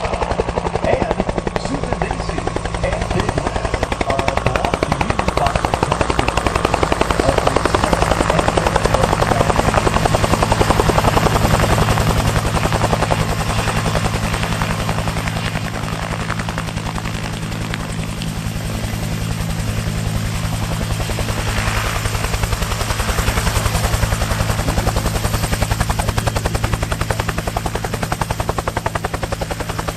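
Blade 230 S electric RC helicopter in flight: a steady rotor chop and motor drone that swells and fades as it moves about, loudest about ten seconds in, quieter around eighteen seconds, then rising again.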